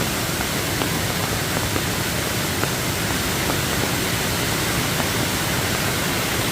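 Steady rushing of a forest stream swollen by heavy rain into a flash flood, with a few faint ticks standing out of it.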